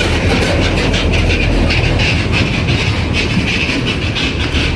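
Heavy road-construction machinery running with a steady low engine rumble and a continuous metallic rattle.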